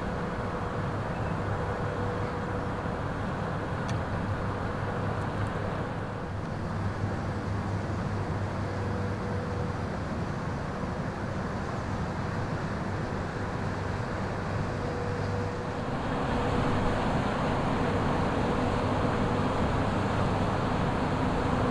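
Diesel engine of a passing Rhine inland ship: a steady low drone with a held tone over a wash of noise, which gets louder about three-quarters of the way through.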